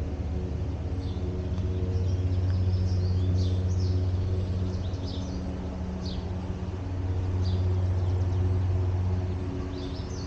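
Songbirds chirping in short, scattered calls over a steady low hum that grows louder twice.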